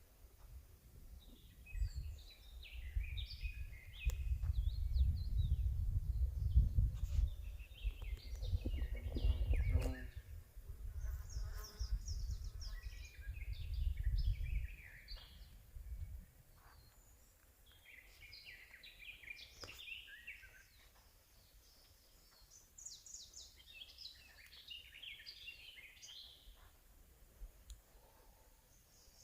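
Several wild songbirds singing and calling, with short chirps and trills overlapping throughout. A low rumble, louder than the birds, runs through the first half and dies away about sixteen seconds in.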